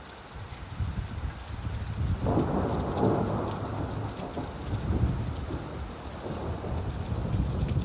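Steady rainfall with a low rumble of thunder; a louder roll of thunder swells up a little over two seconds in and slowly fades away.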